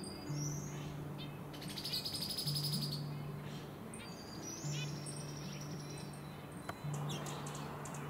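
Wild songbirds calling: thin high whistles and a rapid chattering rattle about two seconds in. Soft background music with low held notes plays underneath.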